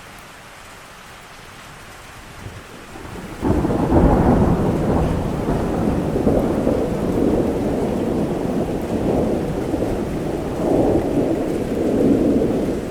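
Thunderstorm: steady rain, then about three and a half seconds in a thunderclap breaks in suddenly and rolls on as a long low rumble with slow swells.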